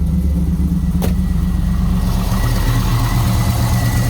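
1998 Camaro Z28's LS1 V8 engine idling steadily, with a single sharp click about a second in.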